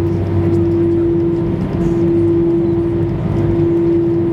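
Airliner cabin noise: the jet engines and cabin systems give a steady low rumble with a constant droning hum.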